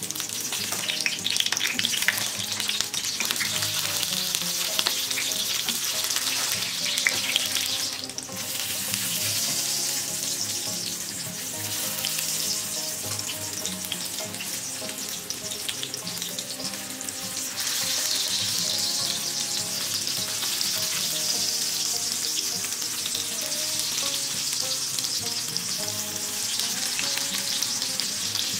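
Hariyali kabab patties sizzling steadily as they shallow-fry in hot oil in a frying pan, with light clicks of a fork turning them.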